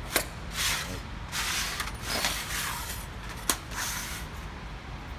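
A marking tool being drawn across sheet metal, scratching in four short strokes, with two sharp clicks, one just after the start and one about three and a half seconds in.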